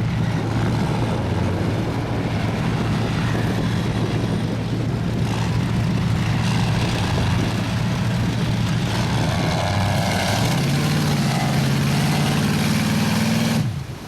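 Mud truck engine running hard, its pitch climbing over the last few seconds before the sound cuts off abruptly near the end.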